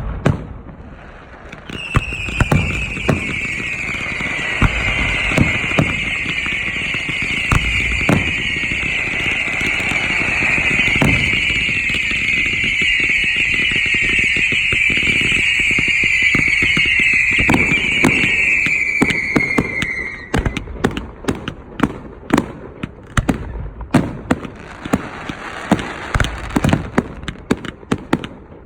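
Aerial fireworks display: a loud, continuous shrill whistle from many whistling effects sounds from about two seconds in until around twenty seconds, dropping slightly in pitch before it cuts off, over repeated booming shell bursts. After that comes a rapid run of bangs and crackling reports.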